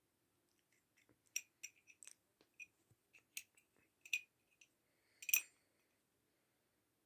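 Zippo lighter being handled: a string of small, sharp metallic clicks and clinks, the loudest about five seconds in.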